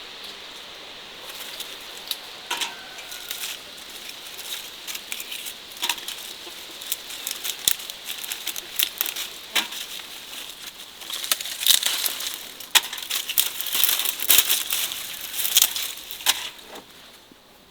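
Irregular crackling and rustling with many sharp clicks, busiest and loudest in the second half, as of something being handled.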